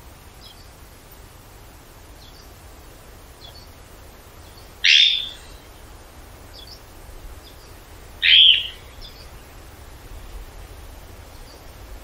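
Forest birds calling: two loud calls about half a second long, one about five seconds in and another about three seconds later, with faint distant chirps in between.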